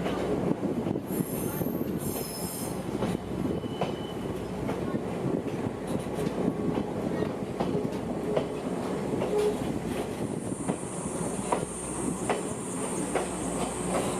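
Kominato Railway Satoyama Torokko trolley train running on the rails: a steady rumble with scattered wheel clicks over the track, and a high wheel squeal coming in about ten seconds in.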